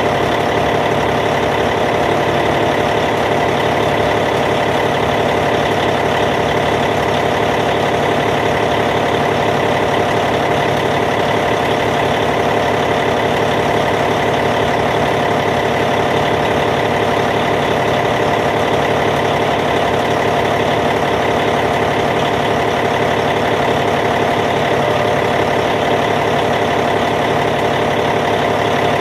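Caterpillar C15 diesel engine of a D8T bulldozer idling steadily.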